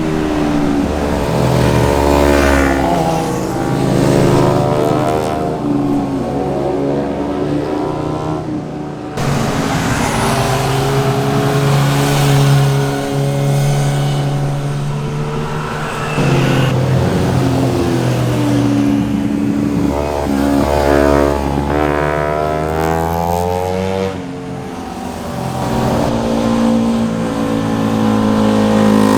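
Sport motorcycle engines revving up and down through gear changes as bikes pass one after another, the pitch rising and falling several times, with abrupt changes from one bike to the next.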